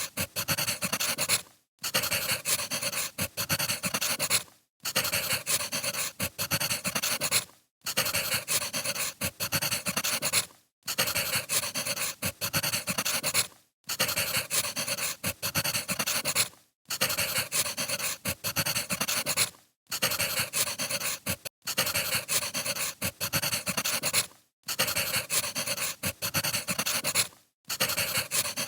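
Burning firewood crackling and hissing, thick with sharp pops. It comes in even stretches of about three seconds, each broken by a brief dropout, like a short recording played on a loop.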